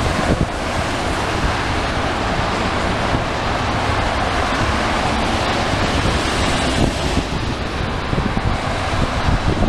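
Steady rushing jet noise of a wide-body airliner's engines near the runway, with wind buffeting the microphone.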